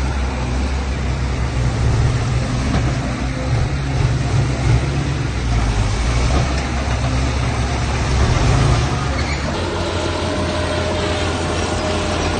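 Heavy diesel machinery engine running with a deep rumble; about nine and a half seconds in the sound changes, the rumble falling away and a steadier, higher hum taking over.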